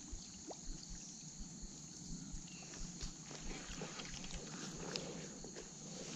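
Steady high-pitched insect chorus, with scattered soft clicks and knocks throughout.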